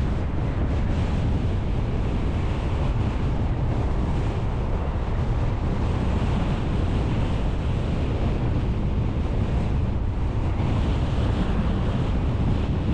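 Steady wind and road noise from a car on the move: a dense low rumble with a hiss above it, the wind buffeting the microphone.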